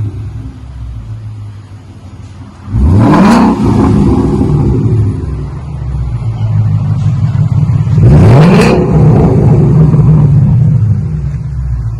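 2018 Ford Mustang GT's 5.0 V8 running through single-chamber V-tube mufflers and a true X-pipe with factory cats: a low idle rumble, revved sharply twice, about three and eight seconds in, each rev climbing in pitch and then falling back to idle.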